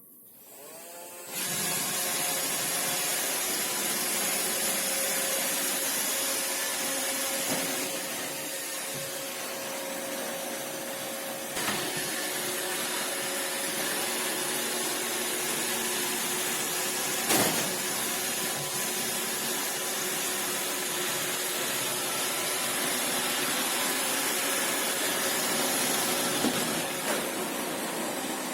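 iRobot Roomba Combo Essential robot vacuum and mop running steadily, its suction fan and brushes starting up about a second in. Two brief sharp knocks come partway through.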